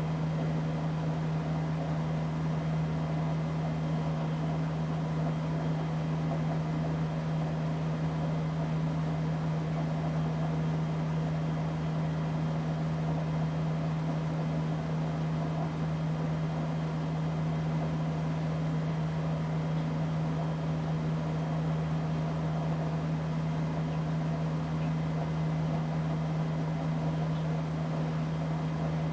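Casablanca Delta ceiling fan running steadily, its motor giving a constant low hum.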